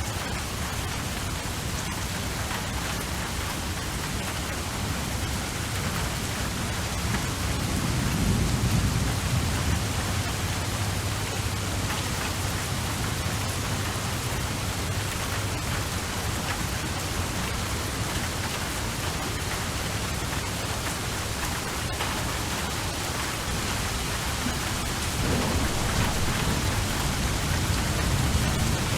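Steady rain with low rolls of thunder, one swelling up about a quarter of the way in and another starting near the end.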